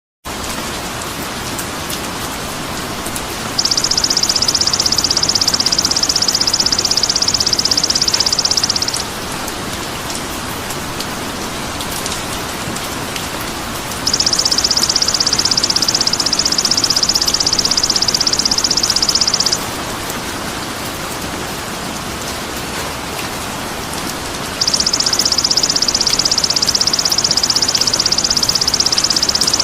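Songbird training (masteran) recording: a steady rain-like hiss, with a high, rapid, buzzing trill laid over it three times, each lasting about five seconds and coming at even intervals.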